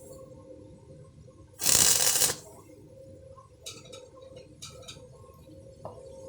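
Electric welding arc crackling in one short burst of under a second, about two seconds in, over a steady hum. A few faint ticks follow.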